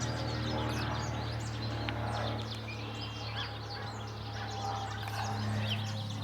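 Many small birds chirping busily, over a steady low droning hum that swells slightly near the end.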